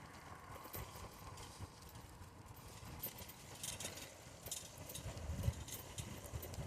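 Riding noise from a bicycle: scattered light clicks and rattles over a low wind rumble on the microphone, the rumble growing toward the end.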